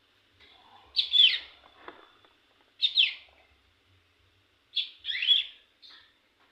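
Young hill prinia (ciblek gunung) singing three short, loud bursts about two seconds apart, each a quick run of falling notes: an early attempt at the rapid-fire 'ngebren' song.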